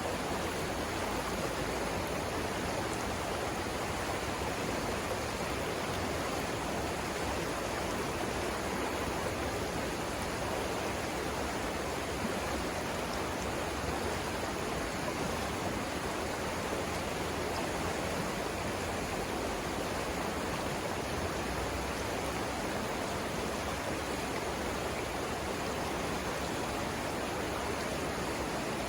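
Savannah River water flowing, a steady, even rush with no breaks.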